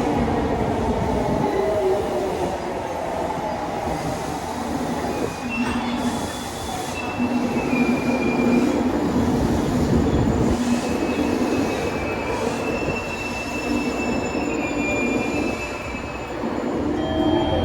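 Electric train running on rails with a steady rumble; a motor whine falls in pitch in the first second or two, then high wheel squeals come and go through the middle.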